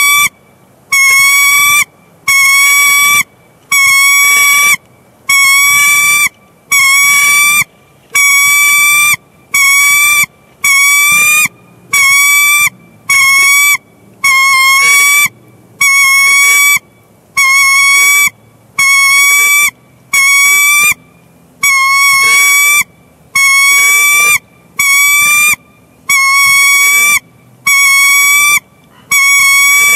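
A bird's loud, pitched call repeated evenly about once a second, each note lasting under a second with a slight waver.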